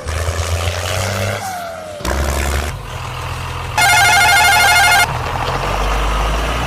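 Electronic toy-vehicle sound effects: a low engine-like rumble that starts and stops a couple of times, then a loud electronic jingle of beeping tones about four seconds in, lasting just over a second.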